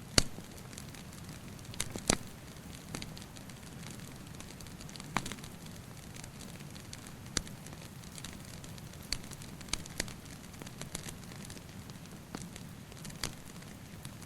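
Wood fire crackling: a steady soft hiss broken by irregular sharp pops and snaps, the loudest near the start and about two seconds in.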